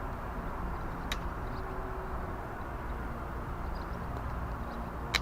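Campfire of slightly damp birch wood burning, with two sharp crackles, about a second in and at the end, over a steady low outdoor rumble.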